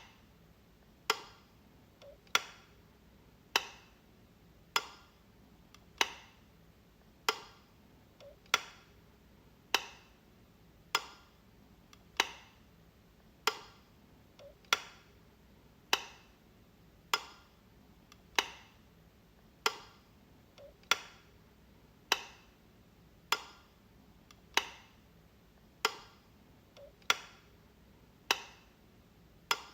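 Light switch being flicked over and over, one sharp click about every second and a quarter, a few of them with a softer click just before.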